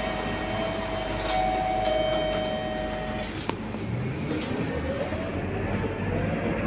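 Scania K230UB city bus running, with a steady whine for the first three seconds, a single click, then engine and drivetrain noise rising in pitch as the bus accelerates.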